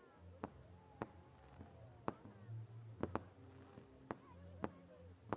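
Fireworks going off, a string of sharp bangs at irregular intervals, about eight in a few seconds, over a low steady hum.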